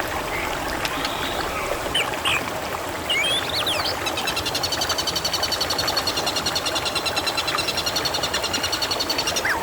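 Water trickling and babbling steadily, with short bird chirps in the first few seconds. From about a third of the way in, a long, rapid pulsing trill runs for about six seconds and stops just before the end.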